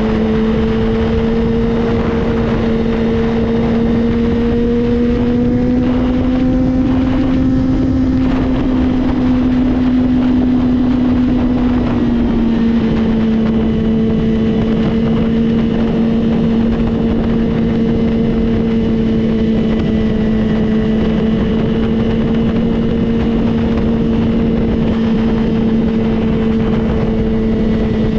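Motorcycle engine running at a steady cruising pitch, with wind rushing over the microphone. The pitch creeps up slowly over the first several seconds and dips a little about twelve seconds in, then holds steady.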